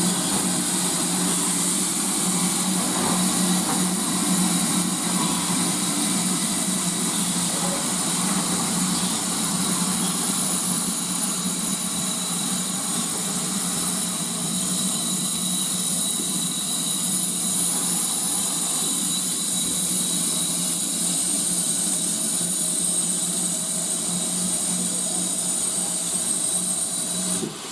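Railway locomotive standing with steam hissing steadily over a constant low hum, with no exhaust beats; it cuts off suddenly near the end.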